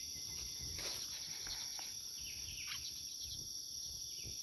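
Steady high-pitched insect chorus droning without a break, with a few short falling chirps over it.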